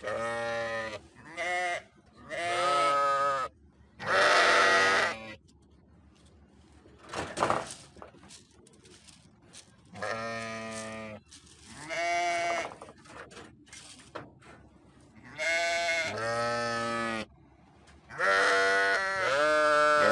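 Sheep bleating: about nine separate calls, some short and some lasting a second or two, with quiet gaps between them.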